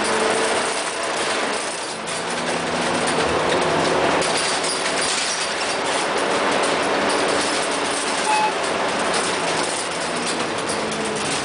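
Dennis bus running, with a steady engine drone under constant clattering and rattling.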